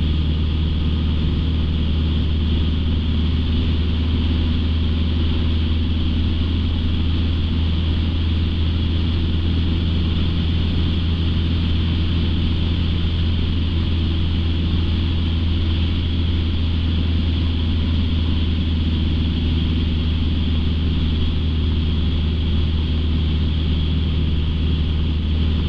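Light aircraft's piston engine and propeller droning steadily in flight, heard from inside the cockpit: a constant low hum with a hiss over it, holding one pitch throughout.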